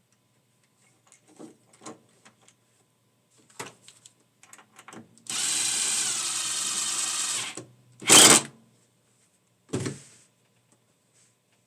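A small electric power-tool motor whirs steadily for about two seconds amid light clicks and handling knocks. A short, loud burst follows and then a single knock.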